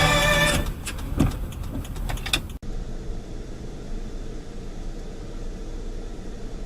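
Steady road and engine noise of a car driving, picked up by a dash camera inside the cabin. It begins after a sudden cut; before it, the tail of some music fades and a few sharp clicks sound.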